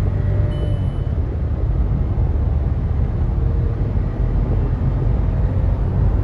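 Cabin sound of a 2020 Volkswagen Polo GT TSI's 1.0-litre three-cylinder turbo petrol engine pulling hard at high revs under full acceleration, with heavy road rumble. About a second in, the engine note drops as the six-speed torque-converter automatic shifts up, then climbs again.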